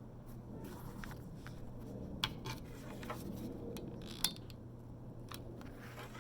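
A few sharp, light clicks and taps with faint rubbing as bra straps, their clasps and a hot glue gun are handled at a crafting table, over a faint steady hum.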